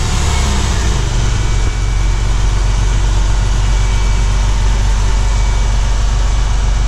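Porsche 911 flat-six engine idling steadily just after a cold start.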